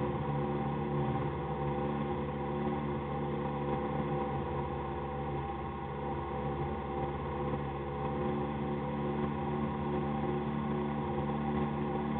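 Citroën AX rally car's engine idling steadily at an even pitch, heard from inside the cabin.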